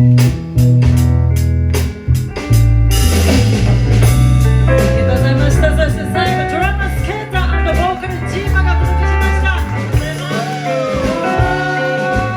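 Live band music with a bass line and guitar; a voice starts singing about three seconds in.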